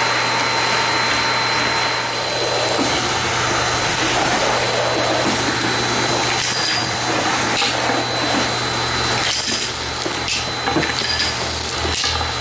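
Nilfisk GM80 vacuum cleaner running steadily, a constant hiss with a thin high whine. Scattered sharp knocks and clicks come in over it in the later part.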